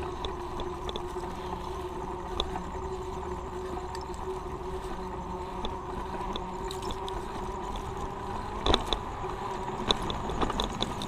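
Riding a road bike: steady wind and road rumble with a constant hum, light ticking clicks, and two sharp knocks near the end.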